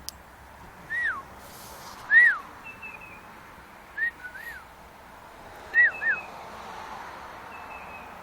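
Pet birds whistling: about six short notes that each rise and fall, some in quick pairs, with faint higher chirps between them.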